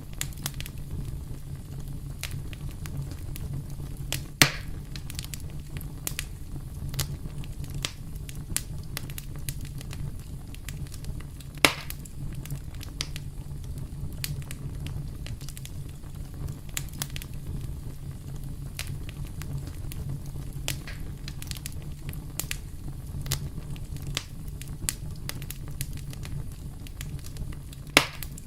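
Wood fire burning with a steady low rumble and frequent sharp crackles and pops, the loudest pops coming at about four and a half seconds, near twelve seconds and just before the end.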